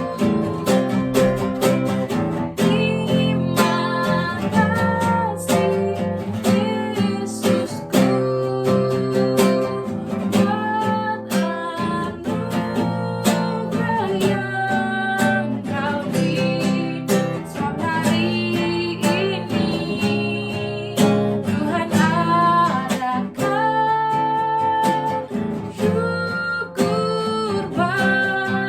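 A worship song played on strummed acoustic guitar with a singing voice carrying the melody.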